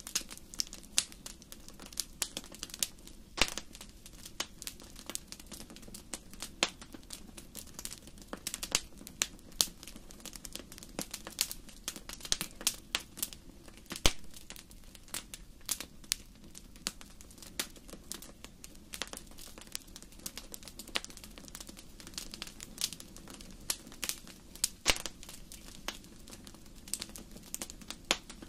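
Wood fire burning in a fireplace: irregular crackles and sharp pops over a low steady hiss, with a few louder snaps.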